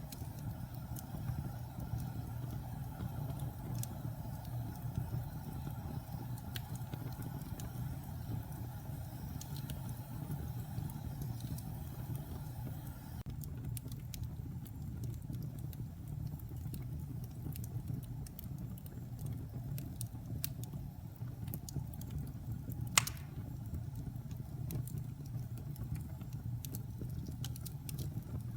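Wood fire burning in a fireplace: a steady low rumble of flames with scattered crackles of the burning wood, and one sharp, louder pop about three quarters of the way through.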